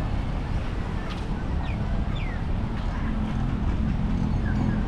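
Outdoor roadside ambience: a steady low rumble of traffic and engines, with a few short, falling bird chirps.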